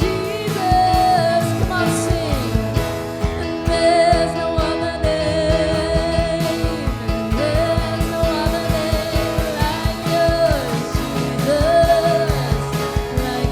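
Live worship band music: a singer holding long, wavering notes over the band, with a steady drum beat.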